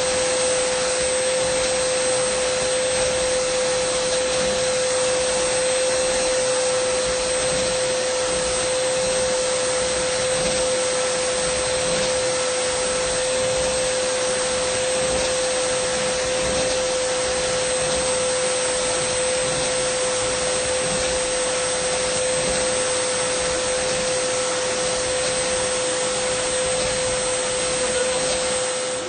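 Dyson vacuum cleaner running steadily: a constant motor whine with a thin high whistle above it over the rush of airflow.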